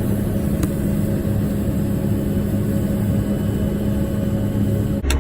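Steady engine drone heard from inside a tractor cab, with a constant hum, while a combine unloads corn into the grain cart alongside. About five seconds in, a sharp click and the sound shifts abruptly to a deeper rumble.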